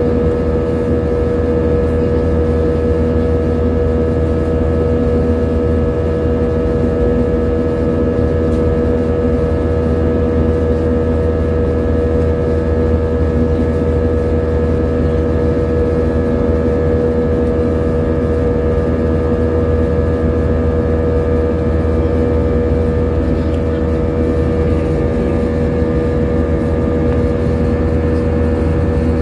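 Airliner cabin drone in flight: the jet engines and airflow make a steady low rumble with a constant hum of several fixed tones, unchanging throughout.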